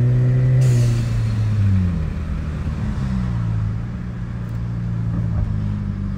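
A car engine running under load. A short hiss comes just under a second in, and about two seconds in the engine note drops in pitch, then holds steady again.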